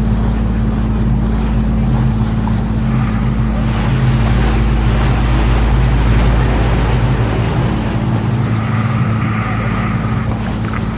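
Canal tour boat's motor running steadily, a low hum over a constant wash of noise.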